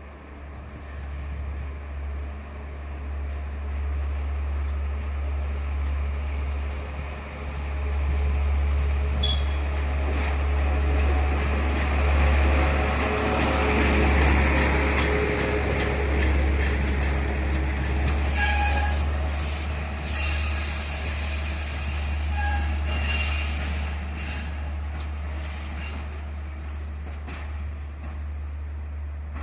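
PS-00/B rail catenary maintenance train departing: running noise swells to its loudest mid-way, then the wheels start squealing on the rails, several high squeals coming and going over the last third.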